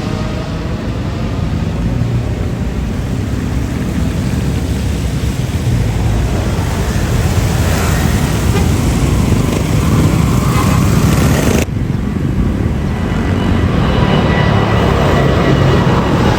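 Jet engines of a departing Airbus A330-900neo airliner (Rolls-Royce Trent 7000s), a loud steady rumble with broad jet noise. About twelve seconds in the sound cuts abruptly to another departing airliner, a Boeing 787-10, its engines giving the same rumble with a thin steady whine on top.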